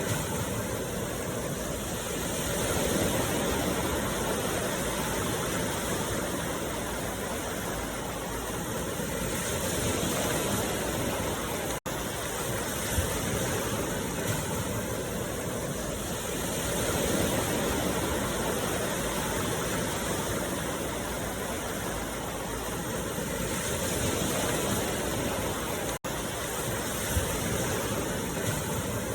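Steady rushing water, like a waterfall or stream, swelling and easing gently about every seven seconds, with two brief dropouts, one near the middle and one near the end.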